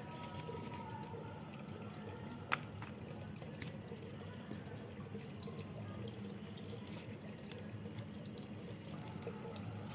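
Steady sound of running or trickling water, with a few faint clicks.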